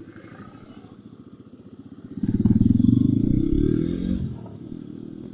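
Single-cylinder motorcycle engine idling, then revved once about two seconds in, climbing and falling back over roughly two seconds before settling to idle again.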